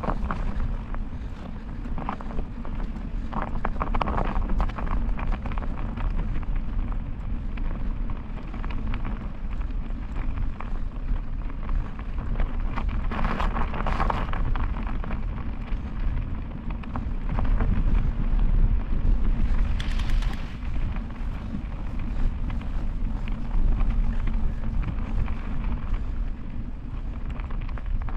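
Wind buffeting the microphone while riding a bicycle, a steady low rumble that swells and eases in gusts.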